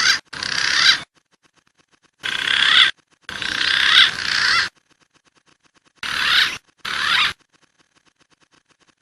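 Calls of a green pigeon (punai) played from a bird-lure recording: three pairs of high, wavering whistled calls, each call under about a second and a half, with short silences between the pairs.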